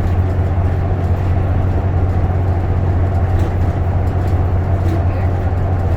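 Steady low drone of a diesel bus heard from inside the cabin as it drives along: engine and road noise at an even speed, with no changes.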